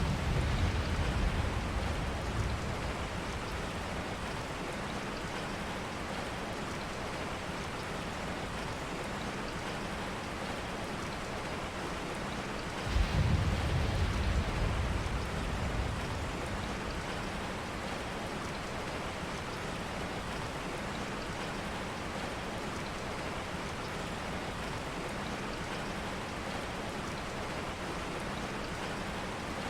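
Steady rain. Two low rumbles break in suddenly, one at the start and one about 13 seconds in, each fading away over two or three seconds.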